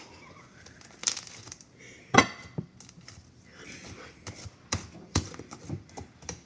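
Hands playing with slime: squishing and crackling, with sharp popping snaps, the loudest about two seconds in and several more in quick succession near the end.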